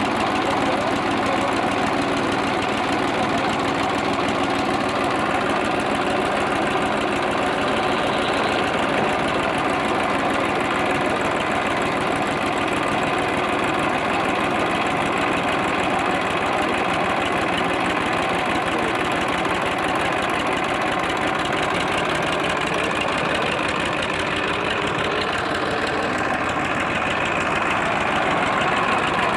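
Massey Ferguson tractor's diesel engine running steadily, a rapid even chug of firing strokes.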